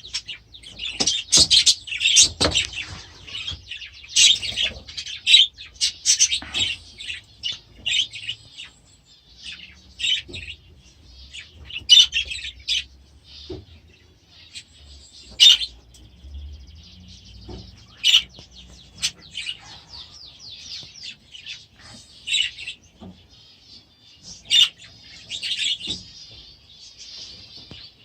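A flock of budgerigars chirping and chattering, a continuous warbling with sharper, louder calls standing out every few seconds.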